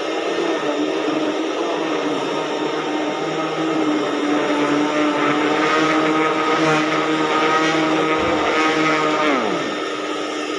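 Vacuum cleaner running steadily on carpet, its motor a loud steady whine over rushing air. Near the end the motor's pitch drops.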